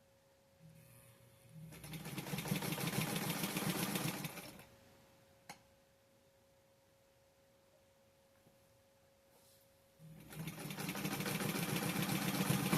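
Brother Sovereign sewing machine running in two bursts of stitching a few seconds long, each starting slow and picking up speed, with a quiet pause between them. It runs smoothly and quietly, with only a light rapid rattle of the needle mechanism.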